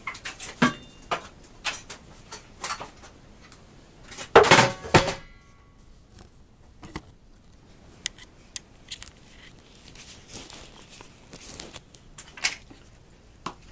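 Objects being handled and set down: scattered knocks and clicks, with one louder clatter about four seconds in that leaves a brief metallic ring.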